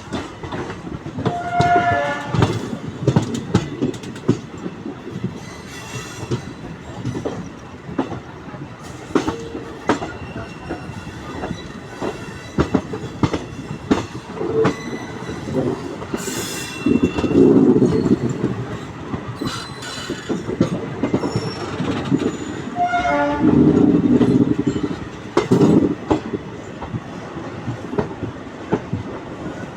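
Indian Railways passenger train rolling into a station, its wheels clicking over rail joints and points in a steady clatter, with heavier rumbling surges near the middle and again past twenty seconds. Two brief high tones sound, about two seconds in and again about twenty-three seconds in.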